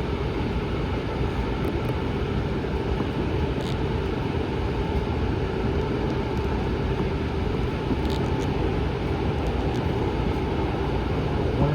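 Steady running rumble of a VTA light rail train in motion, heard from inside the car, with a faint steady hum. Two faint ticks come about a third and two thirds of the way through.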